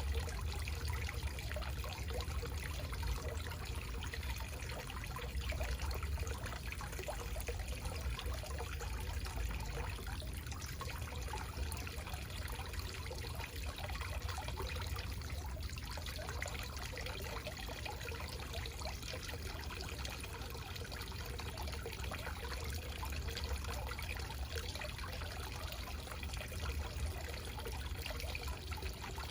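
Small backyard waterfall: water splashing and trickling steadily, with a low rumble underneath.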